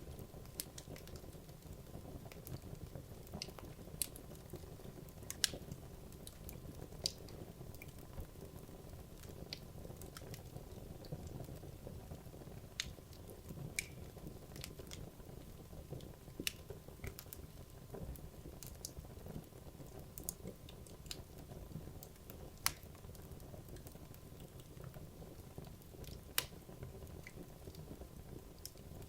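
Wood logs burning in a fireplace: a low steady rush of flame with irregular sharp crackles and pops, a few of them louder.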